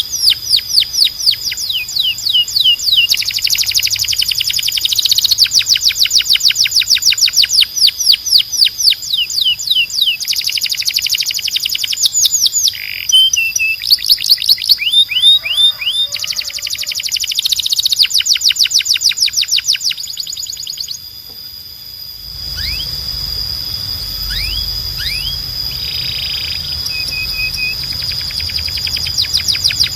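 Domestic canary singing: loud, rapid rolls of repeated sweeping high notes and trills, changing pace between phrases. About 22 seconds in, the song thins to a few scattered notes and short trills over a low hum.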